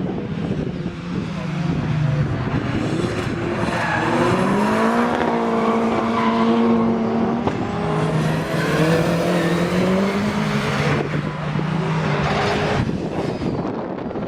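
Car engines running hard at a race circuit, their notes climbing and then holding at steady revs for a second or two at a time, over a constant rush of engine and road noise.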